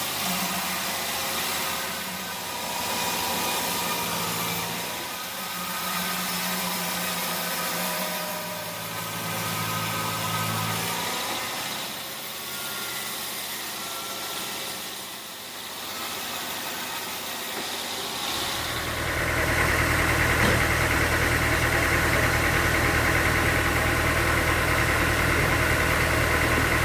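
Engine running with a shifting hum, then a louder, steady engine drone that sets in about two-thirds of the way through and holds.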